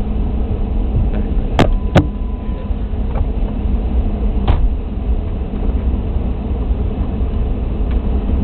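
Police car moving slowly, a steady low rumble of engine and road noise, with three sharp clicks or knocks at about one and a half, two and four and a half seconds in.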